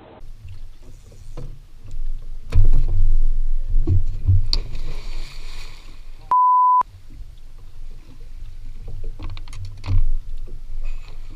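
Low rumbling and dull thumps, loudest from about two and a half to four and a half seconds in, with scattered clicks. A little over six seconds in, a half-second single-tone censor bleep replaces all other sound.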